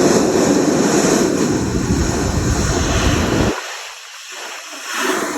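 Wind buffeting the microphone: a loud rushing noise with a low rumble that drops away suddenly about three and a half seconds in, then briefly picks up again near the end.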